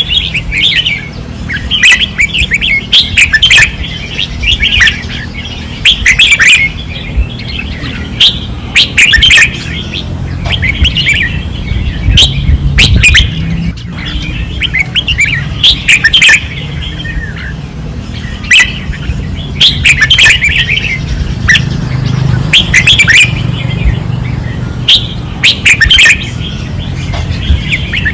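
Caged red-whiskered bulbuls singing loud, short warbling phrases one after another, every second or two.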